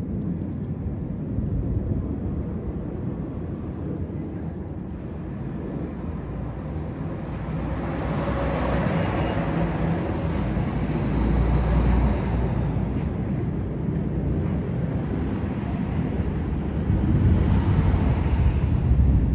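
Low rumble of passing vehicle noise, swelling about eight seconds in and again near the end.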